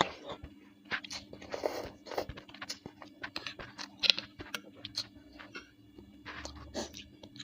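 Close-miked chewing and crunching while eating bakso meatballs: a run of short, irregular mouth clicks and smacks, loudest about four seconds in.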